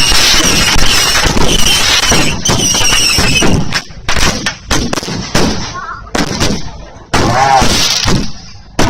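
Fireworks going off: a dense crackle with a high whistle for about the first three and a half seconds, then a string of separate sharp bangs.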